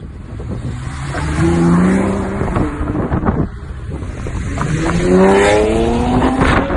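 Sports car engine revving up hard twice, its note climbing each time: a short rise about a second in and a longer one from about two-thirds of the way through.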